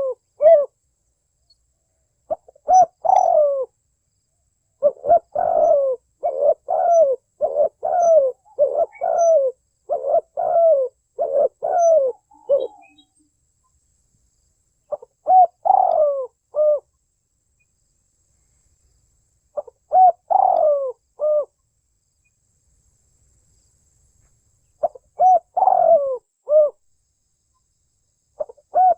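Spotted dove cooing: phrases of short coos, each sliding down in pitch. A long run of coos from about five to twelve seconds in, then shorter phrases every few seconds with pauses between.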